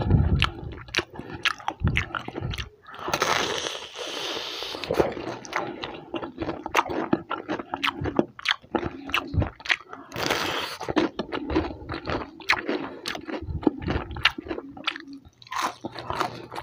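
Close-miked crunching and chewing of crispy fried chicken: many sharp crackles as the fried coating is bitten and chewed, with wet mouth sounds. Two longer hissing breaths, a second or so each, come about three and ten seconds in.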